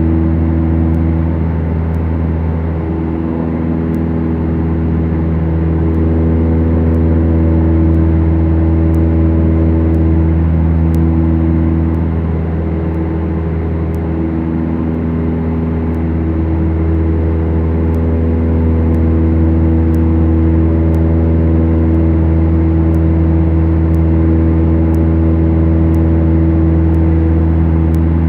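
Twin Lycoming four-cylinder piston engines of a Beechcraft Duchess droning steadily, heard inside the cabin. The tone swells and fades slowly every several seconds, the beat of two engines turning at slightly different speeds.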